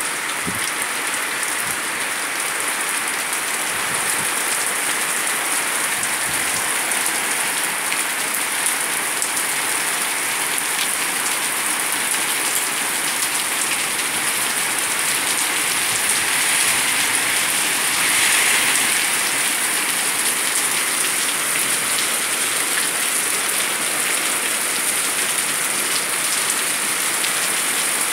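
Heavy rain falling steadily on a paved street and stone walkway, a dense continuous splashing hiss. It grows louder for a couple of seconds about two-thirds of the way through.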